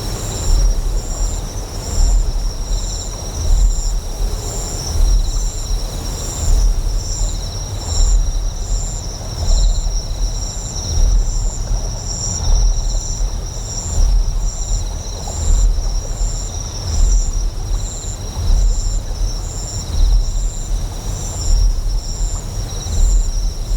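Deep generator hum swelling in a slow, regular pulse about once every second and a half, under high, steady insect chirping.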